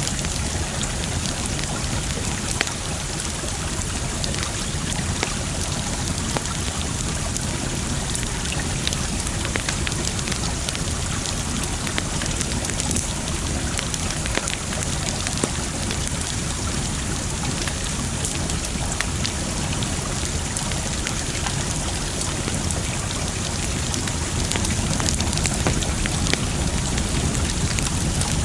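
Campfire crackling, with many small sharp pops and snaps scattered over a steady rushing water sound.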